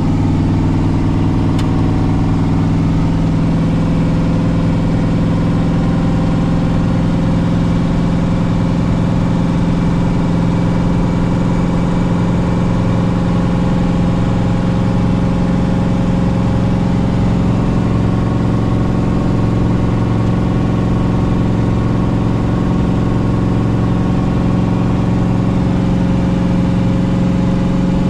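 Twin-turbo small-block Chevy V8 in a Caprice running at a steady cruise, a constant engine drone that drifts only slightly in pitch.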